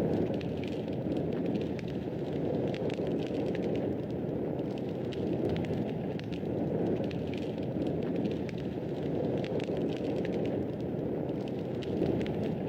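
Wood fire burning steadily in a fireplace, with a low rush of flame and frequent small, irregular crackles and pops.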